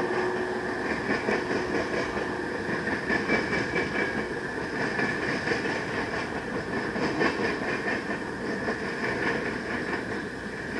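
Freight train cars rolling past, a steady rumble and rattle of wheels on rail with a faint, steady high wheel squeal.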